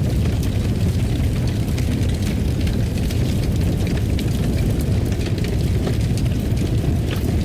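Wood fire crackling in a fireplace: a steady low rumble of burning with irregular sharp crackles and pops scattered throughout.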